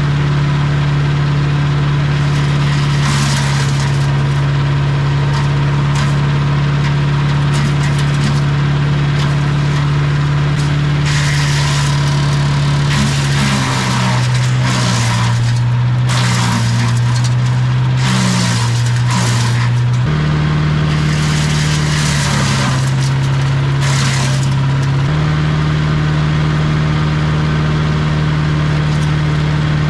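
Champion 338 cc gas wood chipper shredder running at speed while branches are fed in: repeated bursts of loud crackling chipping over the steady engine. Partway through, the engine note sags lower under the load for several seconds, then picks back up.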